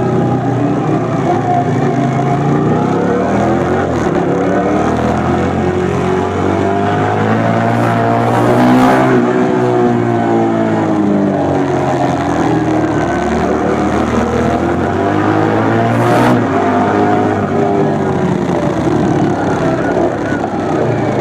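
2004 Suzuki SV1000S's 90-degree V-twin with a LeoVince SBK exhaust, riding hard through bends: the engine note rises under acceleration and falls off again, over and over. Two brief hissing noises stand out, about nine and sixteen seconds in.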